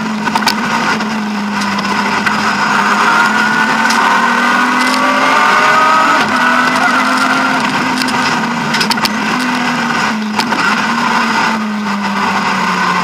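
BMW E36 M3's straight-six engine at full stage pace, heard from inside the rally car's cabin, its pitch climbing under throttle and dropping off several times as the driver shifts and lifts. A few sharp knocks come through over the engine.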